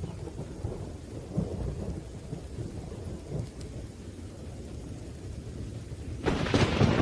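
Thunderstorm with rain and a continuous low rumble of thunder; about six seconds in, a sudden sharp crack of nearby thunder breaks in, the loudest sound.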